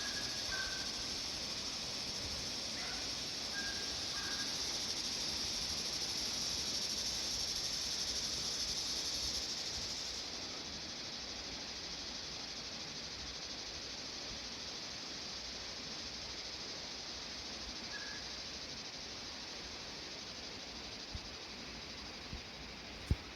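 A chorus of cicadas buzzing steadily and high-pitched in the trees, a rattling that sounds like rattlesnakes. About ten seconds in the chorus drops and goes on softer. A few short bird chirps in the first few seconds.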